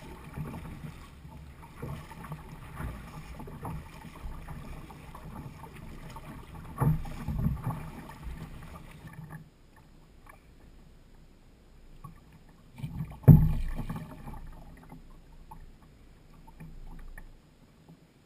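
Sounds of a fishing kayak on the water: low water and hull noise with small knocks, two heavy thumps on the kayak about seven seconds in, and a louder single thump about thirteen seconds in.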